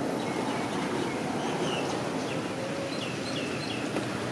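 A few short, faint bird chirps over a steady outdoor background rumble.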